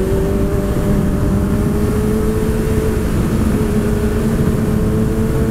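Sport motorcycle engine running at a steady cruise, its note creeping slowly higher, over heavy wind rumble.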